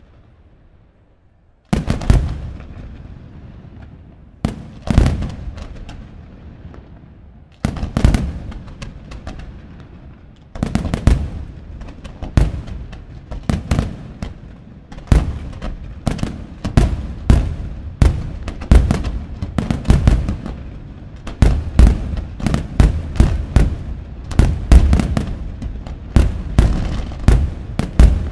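Firework display: aerial shells launched from mortars and bursting in loud booms, with crackle between them. The first bang comes about two seconds in, a few single booms follow, then from about halfway the bursts come several a second in a building barrage.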